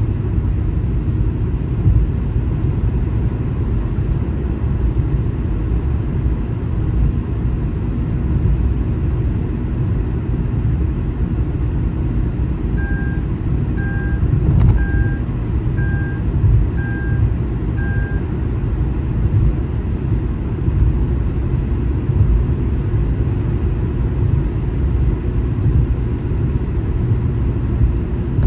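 Steady low road rumble of a car driving on the highway. Around the middle come six short electronic beeps about a second apart.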